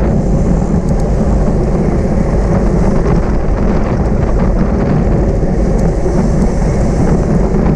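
Loud, steady wind noise rushing over the microphone while riding at speed in a bicycle criterium race.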